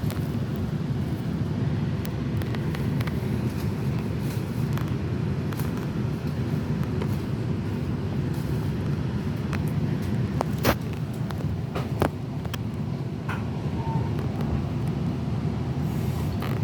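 Passenger train running with a steady low rumble, marked by scattered sharp clicks and knocks, the two loudest a little past the middle.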